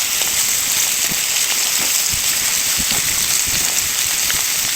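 Wood fire crackling under sea bass grilling on it, a steady sizzling hiss with scattered pops and snaps.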